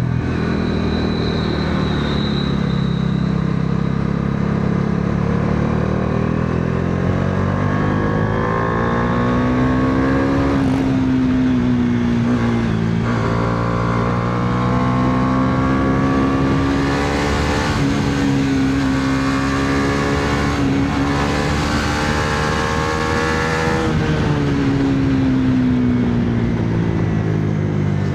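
Bajaj Dominar 400 motorcycle's single-cylinder engine pulling hard while ridden, its pitch rising, dropping sharply at a gear change about thirteen seconds in, then holding high with a rushing noise over it before falling off as the throttle closes near the end and picking up again.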